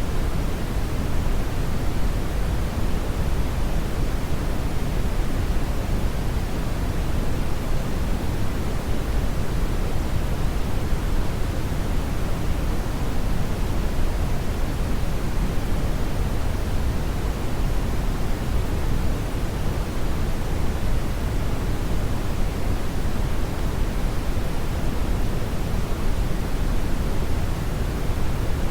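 Strong brown noise: a steady, deep rushing hiss, heaviest in the bass and falling off toward the treble, with no change or events.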